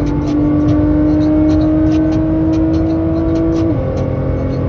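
Sports car engine pulling hard under acceleration, its pitch climbing slowly, then dropping sharply at an upshift about a second before the end and pulling on again.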